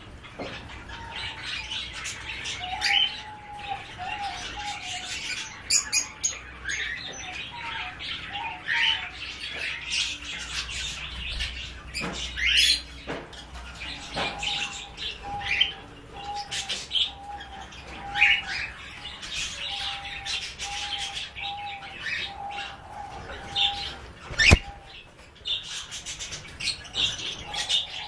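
A group of pet birds chirping and twittering continuously, with a run of short, evenly repeated low notes through the second half. A single sharp click stands out about three quarters of the way through.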